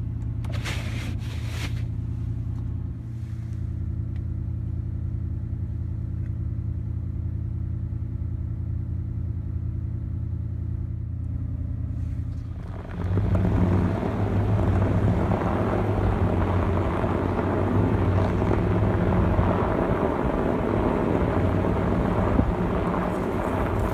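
Pickup truck engine idling with a steady low hum; about halfway through it steps up abruptly and runs much louder, with a deep rumble, as under throttle.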